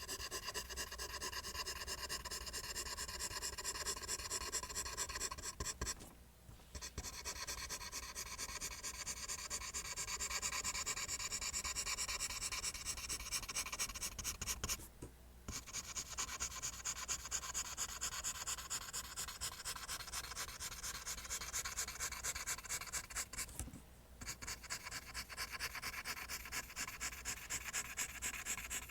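Pencil drawing lines on paper: rapid, rhythmic scratching strokes, broken by three brief pauses.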